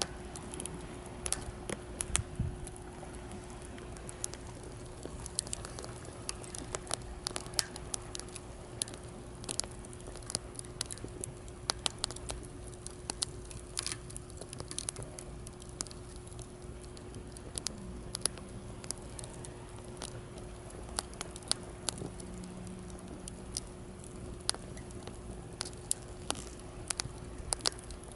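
Wood campfire burning in a fire stand, crackling with many irregular sharp pops, over a steady low wash of sea waves.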